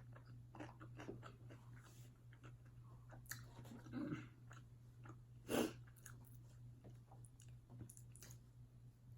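Close-up chewing and biting of fast food: irregular wet mouth clicks and small crunches, the loudest about five and a half seconds in, over a steady low hum.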